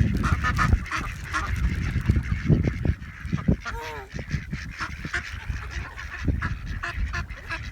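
A crowd of ducks and geese calling at once, many short honks and quacks overlapping as they gather for bread, over a low rumble.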